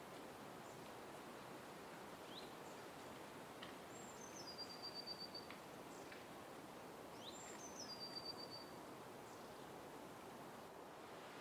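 Faint songbird song: twice, a short rising note followed by a high note that steps down into a brief fast trill, over a steady background hiss.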